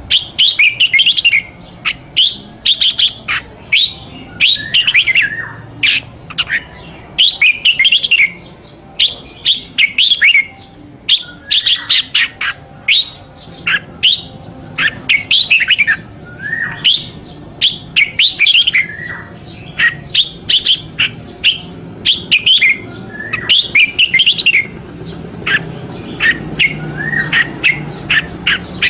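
Red-whiskered bulbul singing: short, loud warbled phrases repeated one after another with brief gaps.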